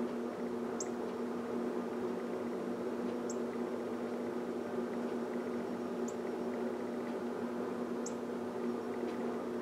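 A steady mechanical hum, like an indoor appliance or fan. Over it, a bird gives short, high chip notes about every two to three seconds, four times in all.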